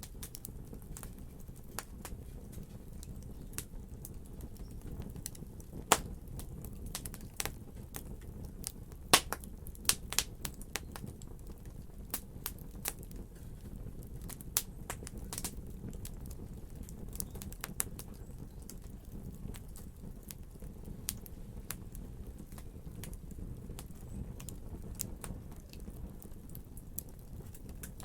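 Wood logs burning in a fireplace: a steady low rumble of flame with irregular sharp crackles and pops, a few of them much louder snaps.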